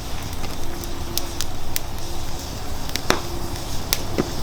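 Hardwood campfire crackling in a fire pit: irregular sharp pops and snaps over a steady rumble of the flames.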